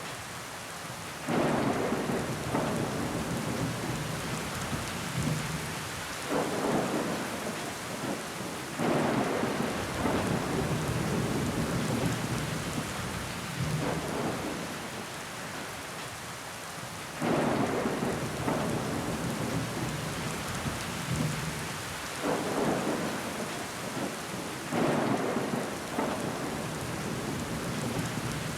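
Steady rain falling against a window, a constant hiss of drops on the glass. Every few seconds, six times in all, it swells suddenly louder and then slowly dies back.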